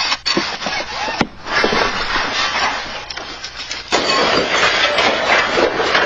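Strong earthquake shaking a building: a dense rattling and clattering of shaken objects with clinks, knocks and brief squeals, growing louder about four seconds in.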